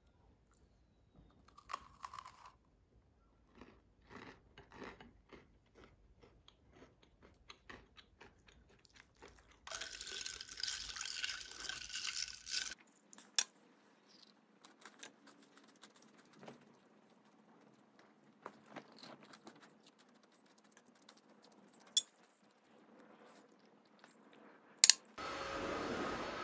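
Crisp bites and chewing of a sugar-coated tigre cake, a series of small crunches, with a few seconds of louder rustling noise partway through and a few sharp clicks. Near the end a cordless stick vacuum cleaner starts running with a steady whine.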